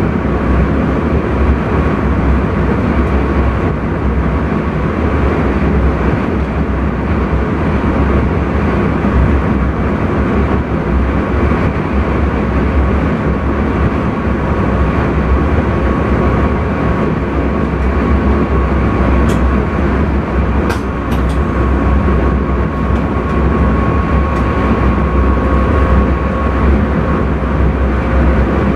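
Intercity train running at speed, heard from the driver's cab: a steady, loud rumble of wheels on rail with a constant hum running through it. There are a few short clicks about two-thirds of the way through.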